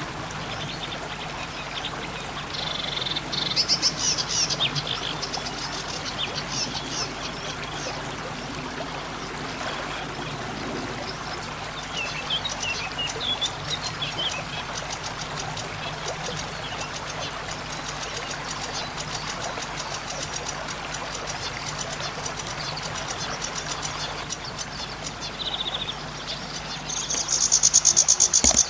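Zitting cisticola (cici padi) giving shrill, buzzy, quavering calls, in two bouts: a few seconds in, and louder near the end. Through the middle there is a long run of rapid, high ticking notes over a steady background hiss.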